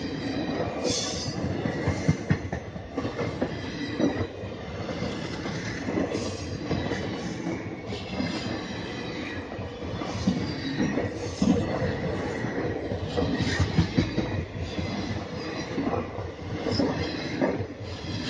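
Train running along the rails: a continuous rumble and rattle of wheels, with repeated knocks and stretches of high wheel squeal.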